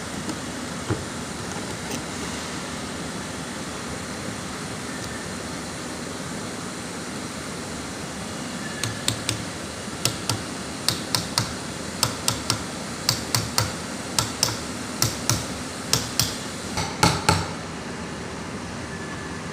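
Hammer tapping on metal in a screw pump repair: a run of about twenty sharp knocks, roughly two a second, starting about nine seconds in and stopping near the end, over a steady background hum.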